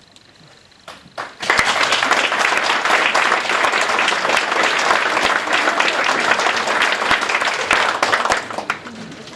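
Audience applauding: a few first claps about a second in, then full applause that tails off near the end.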